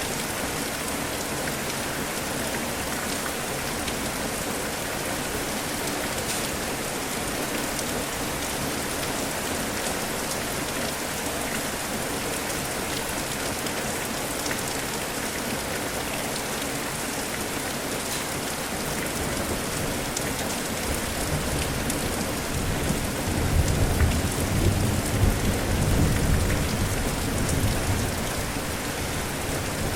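Steady rain falling, with a low rumble of thunder that swells about two-thirds of the way through, rolls for several seconds and dies away.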